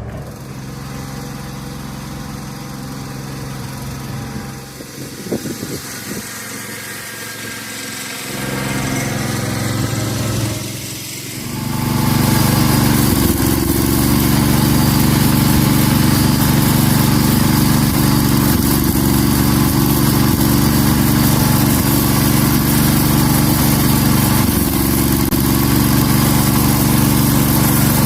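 Garden tractor's Kohler K-series engine running: quieter at first, then about twelve seconds in it picks up to a loud, steady run that holds to the end.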